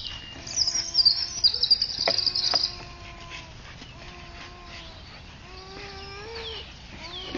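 Birds calling: a fast, high trill lasting about two seconds near the start, then short repeated chirps and lower calls.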